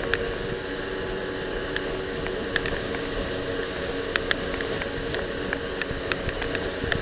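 Jet ski engine running steadily under way, with a rushing hiss of wind and water. Irregular sharp clicks and knocks run through it, from the loosely attached action camera knocking against the life vest.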